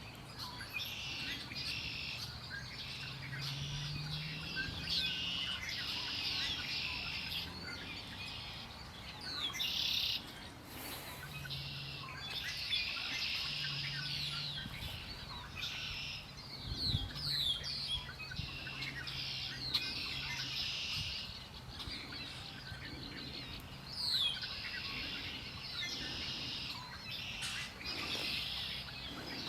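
Songbirds singing, several overlapping with short phrases and chirps repeating every second or two, over a faint low hum.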